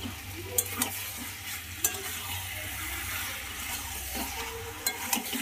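Mutton and potato pieces sizzling in a metal kadai as they are slow-fried in spice masala (kosha) and stirred with a metal spatula. Several sharp clinks of the spatula against the pan come through over a steady frying hiss.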